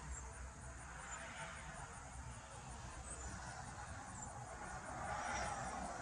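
Faint outdoor background: a low steady rumble with a hiss that swells near the end, and faint high ticking repeating about five times a second.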